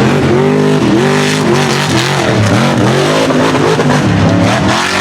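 Unlimited-class mega truck engine revving hard under racing throttle, its pitch swinging up and down over and over, the swings coming quicker near the middle.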